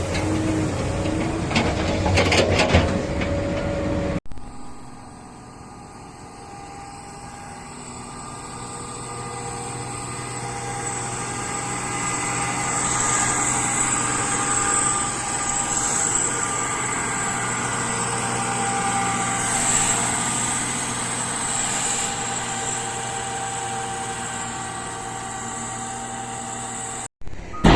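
Engine of a working machine running at a steady pitch. It comes in after an abrupt cut about four seconds in, then grows louder over several seconds and holds. The first seconds, before the cut, are louder and have a few knocks.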